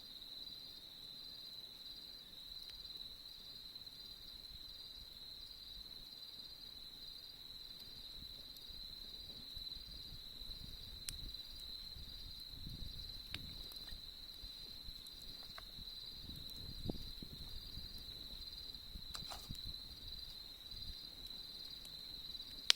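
Crickets chirping steadily in a high, even pulsing trill, with a few sharp clicks in the second half.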